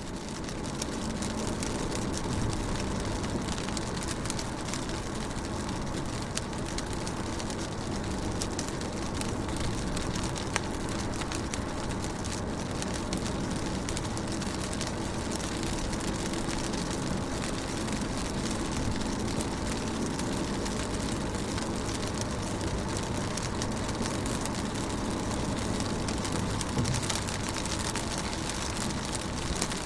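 Rain pattering on a car's windows and body, heard from inside the car, a dense steady wash of small drop ticks over a faint low hum. It fades in over the first second.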